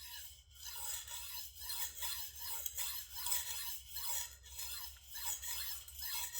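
Steel blade of a Shigeki Tanaka gyuto stroked back and forth on a diamond sharpening stone under light pressure, a rasping scrape on each stroke in a steady rhythm, as a run of counted strokes to raise a burr.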